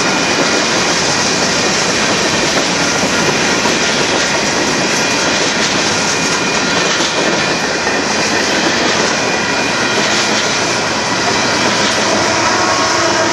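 Freight cars of a manifest train rolling past at close range, a steady loud noise of wheels on rail. Near the end a trailing diesel locomotive passes, its engine adding a steady hum.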